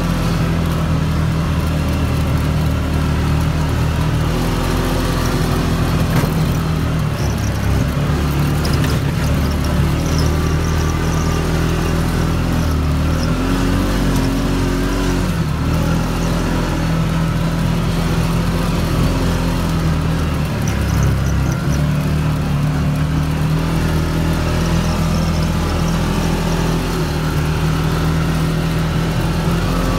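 CFMOTO ATV engine running under way at a steady trail pace, its pitch rising and dipping slightly as the throttle changes.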